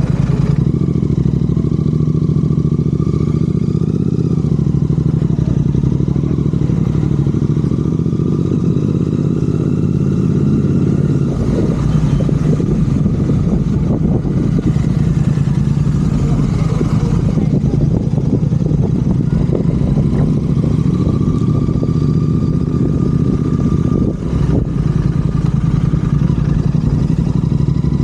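Royal Enfield Continental GT 650's 648 cc parallel-twin engine running loud and steady through Red Rooster aftermarket exhausts as the motorcycle is ridden, with a brief dip in level about 24 seconds in.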